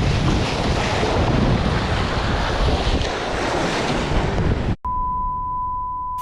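Strong wind buffeting the microphone over breaking waves, a loud rumbling rush. Near the end it cuts off abruptly and a steady high electronic beep tone takes over.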